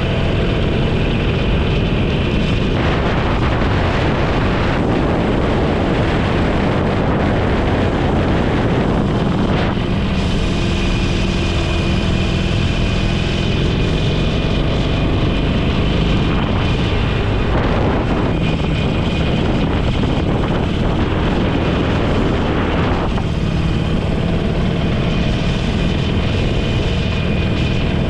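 Motorcycle engine running steadily at riding speed, with wind rushing over the microphone that grows heavier for stretches of several seconds.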